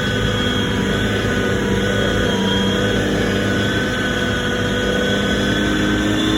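A tank's engine running loudly and steadily, its pitch shifting slightly.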